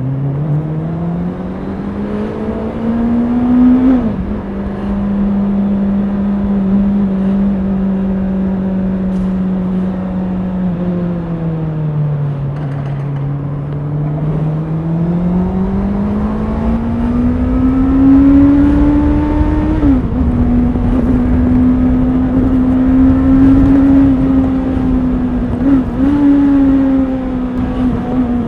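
Honda CBR650R's inline-four engine being ridden through the gears. It climbs in revs to a sharp drop at a shift about four seconds in, holds steady, eases off and slows, then pulls up again to a second shift near twenty seconds and cruises at steady revs with a brief dip near the end.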